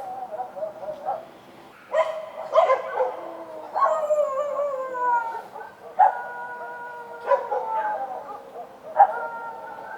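Street dogs barking and howling: sharp barks about two seconds in, then long, slowly falling howls, with more barks breaking in around six, seven and nine seconds.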